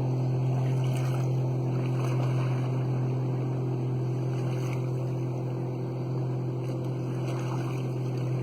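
A steady, low motor hum that holds one pitch throughout, like an engine running at constant speed.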